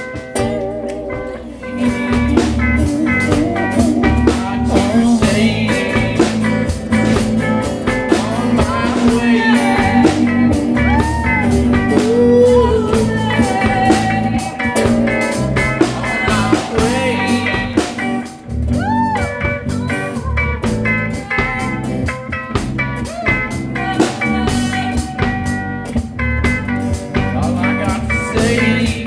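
Live band playing a bluesy instrumental intro with guitar and a drum kit, drum hits keeping a steady beat.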